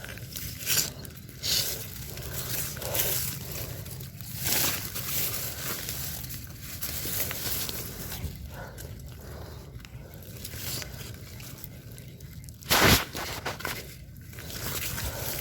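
Irregular rustling and scraping noises from close-by handling, with one sharper, louder burst about thirteen seconds in.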